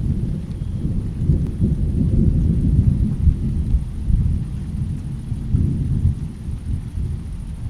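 Low rolling thunder rumbling through a rainstorm. It swells over the first few seconds, eases, then swells again about six seconds in, with faint rain hiss beneath.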